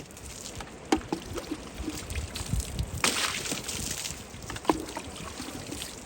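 Water sloshing and trickling as a muddy car is washed, with a brief hiss of spray about three seconds in and a few light knocks.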